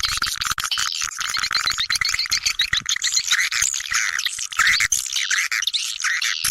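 Recorded swiftlet calls played as a lure for a swiftlet house: a dense, unbroken chatter of rapid high-pitched chirps and buzzy trills.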